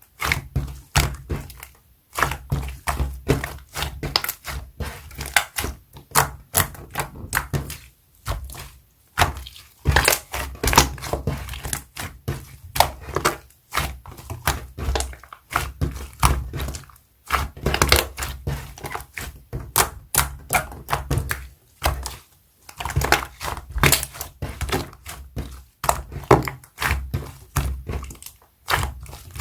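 Hands squishing and poking a soft liquid slime, making rapid wet clicks and pops, several a second, with brief pauses every few seconds.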